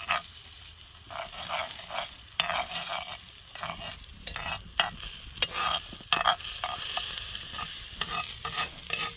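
Eggs sizzling in a pan over a campfire, with a spatula scraping and tapping against the pan in short, irregular strokes.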